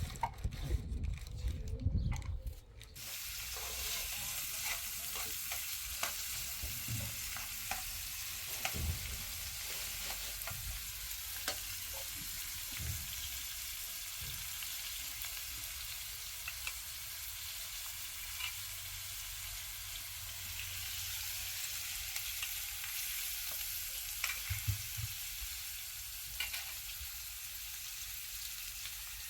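A few low knocks in the first three seconds, then a steady sizzling hiss with scattered small crackles.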